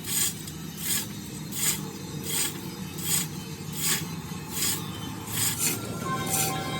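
Rhythmic rasping strokes by hand on metal, like filing, about one stroke every three-quarters of a second. Faint steady tones come in near the end.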